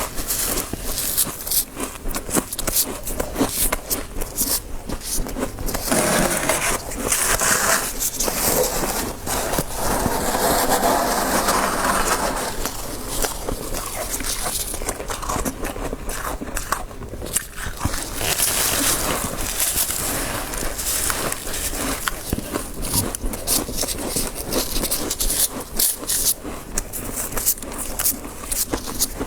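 Soft deep-freezer frost crunching and scraping in close-up: a dense run of sharp crackles and crunches.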